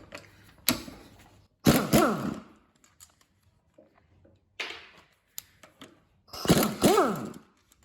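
Power tool driving a 12 mm socket to undo the rear-cover bolts of a Suzuki Jimny R72 manual gearbox. It runs in three short bursts whose pitch rises and falls, the first and last the loudest, with a click before the first.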